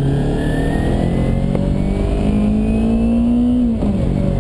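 Kawasaki Ninja 250R's parallel-twin engine pulling under acceleration, its pitch climbing steadily, then dropping sharply near the end as the rider shifts up a gear. Wind rushes over the helmet-mounted camera's microphone throughout.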